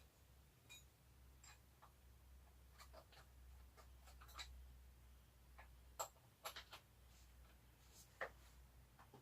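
Faint, irregular clicks and light taps of small parts and hand tools being handled during work on a scooter's fuel tank mounting, over a steady low hum. The clearest clicks fall about six seconds in, a quick group just after, and another a little after eight seconds.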